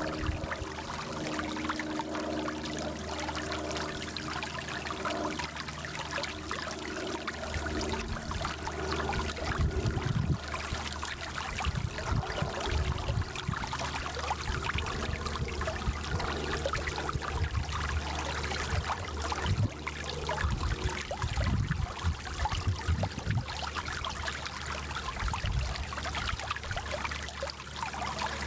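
Small mountain stream flowing and babbling over stones, a steady splashing, trickling rush of water.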